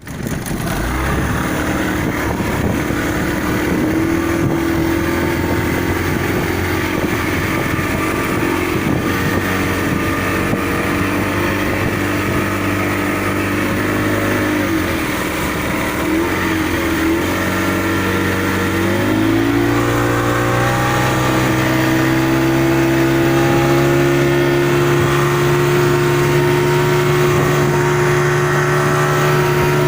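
Motorboat engine running steadily, then its pitch rises a little over halfway through as the boat speeds up, and it holds at the higher speed.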